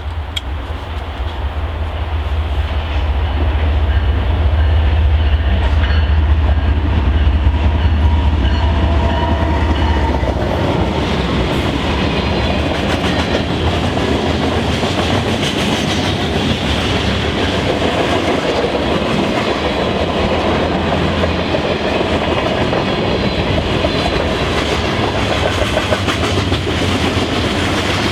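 A train passing close by: a deep diesel locomotive drone builds and peaks during the first ten seconds, then gives way to the steady rumble and clickety-clack of cars rolling past over the rail joints.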